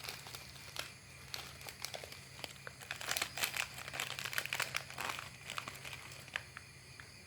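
A cat eating, its chewing making a run of quick small clicks and crackles that is thickest in the middle.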